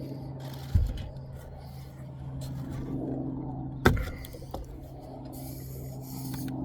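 Two sharp knocks of bricklaying work, about a second in and again near four seconds in, over a steady low hum.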